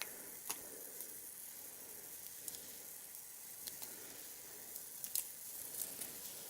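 Small, freshly lit campfire of damp wood burning with a steady hiss and a few scattered sharp crackles.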